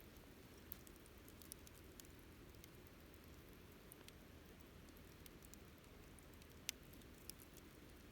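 Wood campfire burning quietly, with sparse crackles and small pops over a low, even hiss; the sharpest pop comes about two-thirds of the way through.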